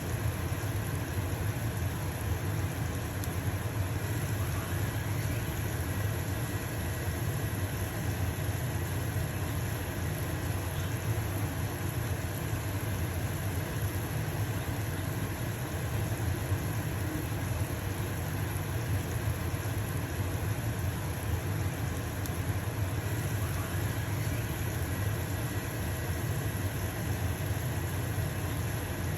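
Stove-top range hood fan running with a steady low hum, with pancake batter sizzling in a frying pan as an even hiss over it.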